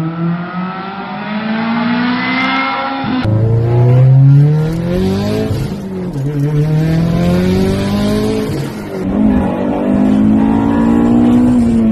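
Car engine accelerating hard through the gears: its note climbs steadily, then drops back at each upshift, three times.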